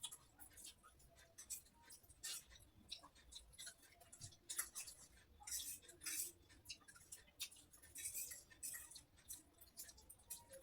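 Faint, irregular clicks and light scrapes of cutlery against a dish as instant noodles are eaten, about one or two small clicks a second, over near silence.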